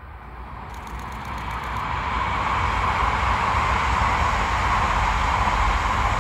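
Yamagata Shinkansen E3-series 'Tsubasa' train approaching and running past, its rushing wheel and air noise swelling over the first two seconds or so, then holding loud and steady.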